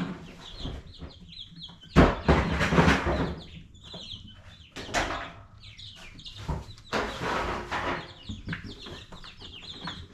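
Brooder of ducklings peeping in short, high, repeated calls, with louder bursts of rustling handling noise about two seconds in, around five seconds and again near eight seconds.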